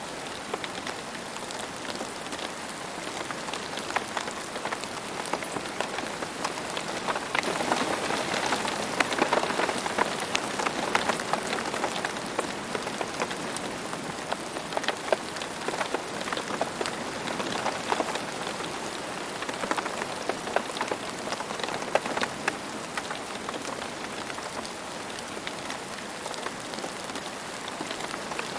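Rain falling steadily on a surface, a dense patter of many small drop impacts, growing heavier for a stretch from about a quarter of the way in before easing back.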